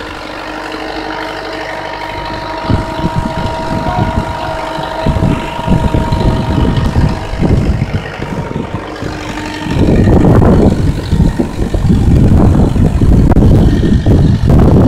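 Truck engine idling steadily, then running louder and rougher, with heavy low rumbling from about ten seconds in.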